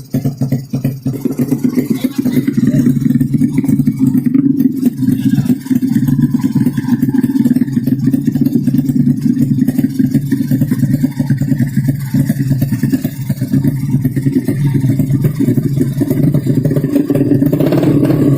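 Racing underbone motorcycle engine running steadily at a fairly constant speed, getting louder and fuller near the end.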